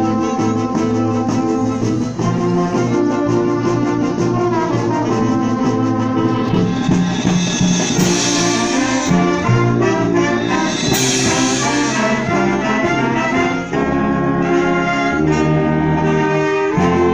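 Symphonic wind band playing, brass to the fore, in full sustained chords that change every second or two, with two crashes about three seconds apart near the middle.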